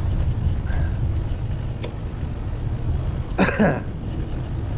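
Steady low wind rumble on the microphone while riding a bicycle, with one short cough-like throat-clearing sound from the rider about three and a half seconds in.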